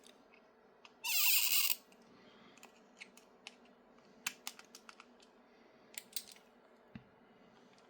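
Small clicks and taps of a hand screwdriver and small screws working on a 3D-printed plastic RC chassis while the rear-end screws are loosened. About a second in there is one brief, louder scraping rattle, and a soft knock comes near the end.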